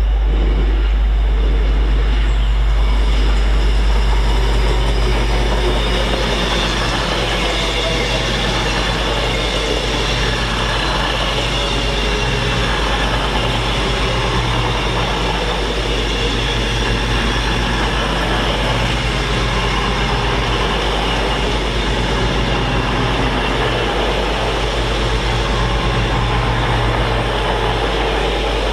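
A train running on the line with a loud, steady rumble and rail noise that carry on without a break.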